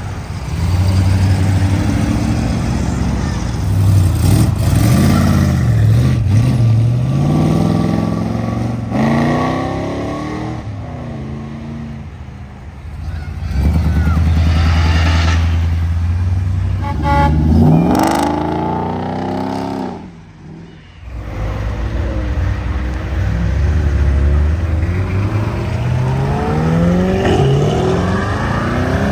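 Classic and muscle cars accelerating away one after another, their engines revving up through the gears again and again, with a brief lull about two-thirds of the way through.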